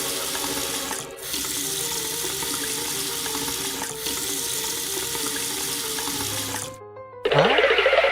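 Water running steadily from a tap, a cartoon sound effect, with a brief break about a second in. It stops near the end, and a louder, busier sound follows. Soft background music plays under it.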